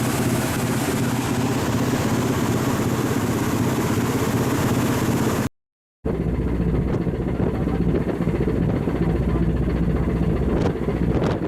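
Diesel engine of a coastal cargo ship on sea trial, running steadily. Its drone is mixed with a hiss through the first half. After a sudden cut about halfway, the drone is lower and heavier, with a few faint clicks.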